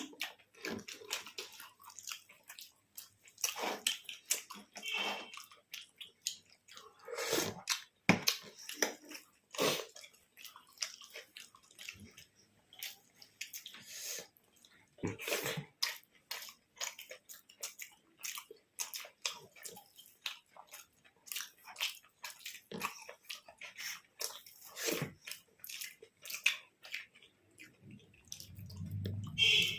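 People chewing and smacking their lips while eating, a steady run of short clicks with a few longer, louder smacks.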